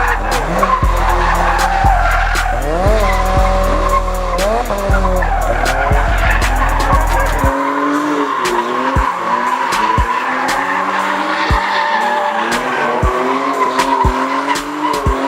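Car engine revving up and down while its tyres squeal and skid, as in burnouts or donuts at a street takeover. Bass-heavy music thumps along with it until about halfway through, when it cuts out.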